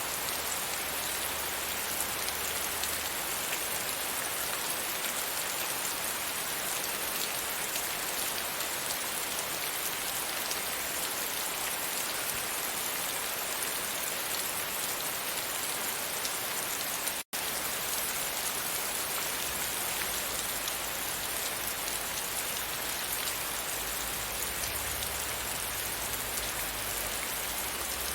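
Steady rain falling on a window pane, a dense, even hiss. The sound cuts out completely for an instant about seventeen seconds in.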